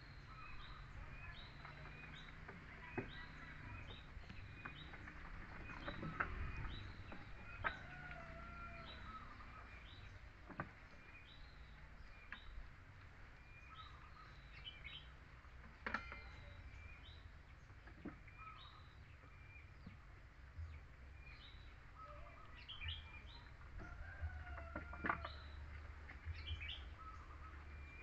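A bird repeating a short, high chirp about once a second, with a few lower calls and occasional sharp clicks.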